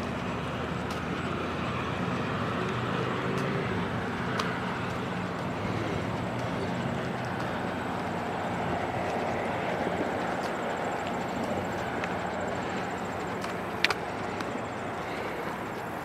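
GO Transit bilevel commuter train pulling away from the station, a steady rumble of wheels on rail mixed with a low engine drone that slowly fades. A single sharp click stands out near the end.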